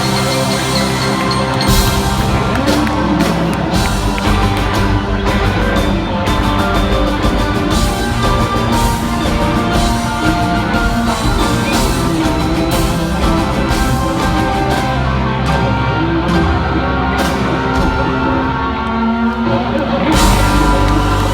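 Live rock band playing at full volume: distorted electric guitars over bass and a driving drum beat, the drums coming in harder about two seconds in.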